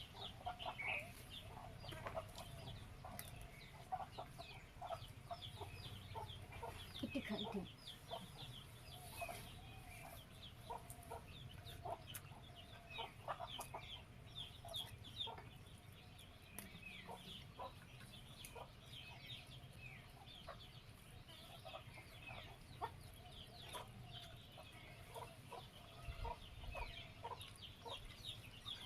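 Chickens clucking, with many short, high chirps and clicks scattered throughout.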